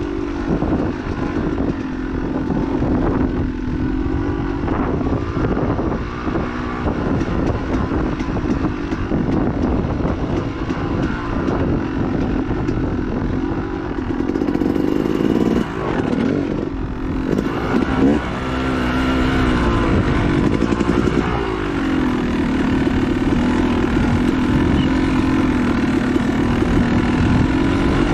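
Dirt bike engine running hard, its pitch rising and falling again and again as the throttle is worked and gears change, with rattles and knocks from the rough trail.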